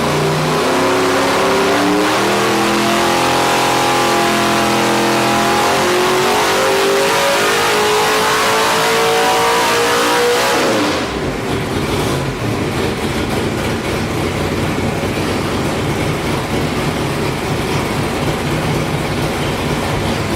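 565 cubic inch big-block Chevy V8 making a dyno pull: the engine climbs steadily in rpm under full load for about ten seconds. The throttle then closes and it falls back to a rough, uneven idle.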